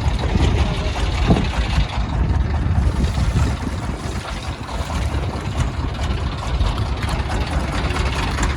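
Boat engine running steadily, a loud low rumble with noise above it.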